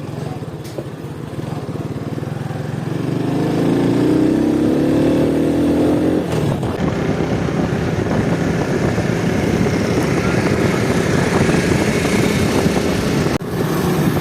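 Honda 70cc single-cylinder motorcycle engine accelerating on a speed run: its pitch climbs from about three seconds in, drops briefly about six seconds in, then the bike runs on at speed with a dense, noisier sound, dipping once more near the end.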